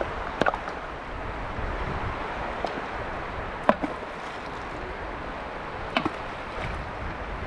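A river flowing: a steady rush of water with a few brief gurgles and plops, the loudest just before four seconds in.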